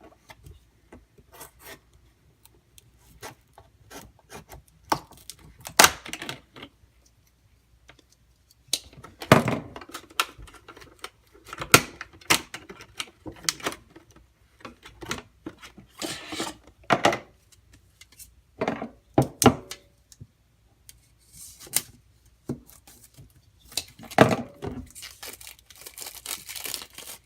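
Packaging being cut, torn open and unwrapped by hand, with scattered knocks, rustles and scrapes as the sharpening stones and their boxes are handled and set down.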